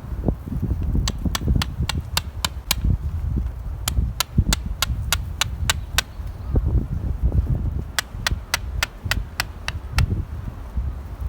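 Tent pegs being driven in with a hammer: three runs of sharp taps, about four a second, over heavy wind noise on the microphone.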